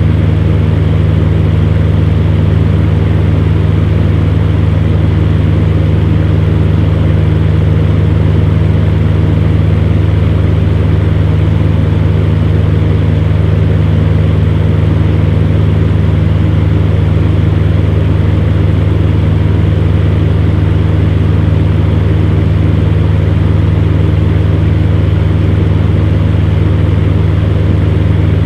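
Electric fan heater running steadily: a low motor hum under an even rush of blown air.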